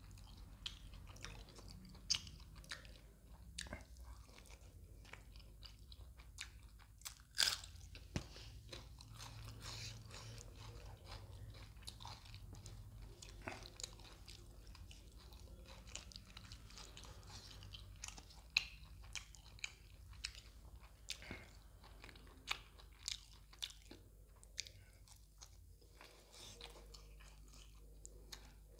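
A person chewing and biting mouthfuls of fish curry and roti close to the microphone, with many short sharp crunches and mouth clicks scattered through the chewing, the loudest about seven and a half seconds in.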